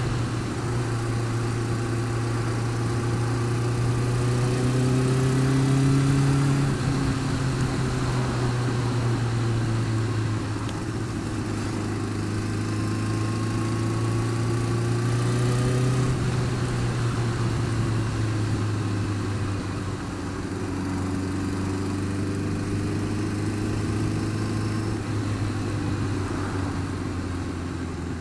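Honda Fireblade inline-four motorcycle engine running steadily, its revs drifting gently up and down a few times.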